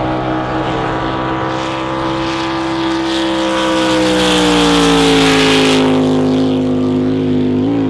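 Drag boat engine running hard as the boat makes its pass. The engine note sags slowly in pitch, the sound swells to its loudest about five seconds in with a rising hiss, and it eases off with a couple of short blips near the end.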